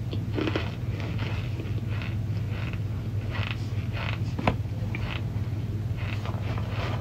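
Close-up chewing and biting of dry chunks of cornstarch: soft crunches repeating roughly every half second, with one sharp click about four and a half seconds in, over a steady low hum.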